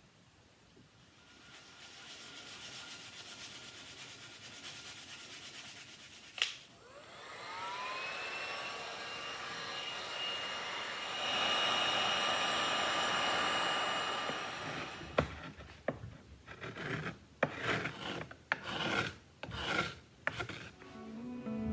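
A small electric tool spins up with a rising whine and runs steadily for several seconds, with a rubbing, abrasive noise against the work, then stops. It is followed by about eight short rubbing strokes, like hand sanding or filing on wood.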